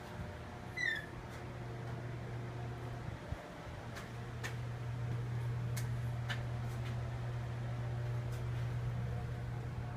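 Steady low machine hum, with a short high chirp falling in pitch about a second in and a few faint clicks.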